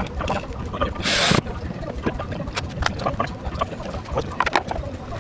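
Workshop sounds of hands and tools on car parts: scattered clicks and knocks over a low rumble, with one short loud hiss about a second in.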